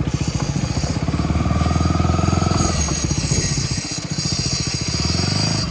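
Motorcycle engine running at low road speed, its firing pulses steady and even, with a steady high-pitched hiss over it.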